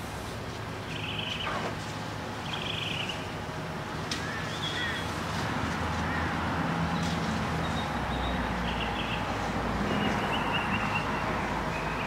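Birds chirping in short trills and calls over a steady outdoor hum. A low vehicle-like rumble swells in the second half.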